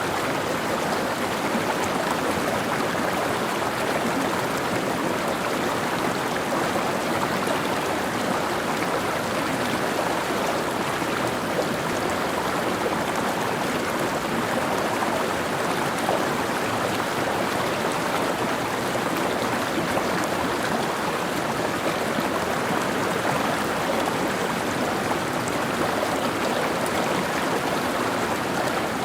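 Mountain stream running over rocks, a steady rushing and babbling of water with no breaks.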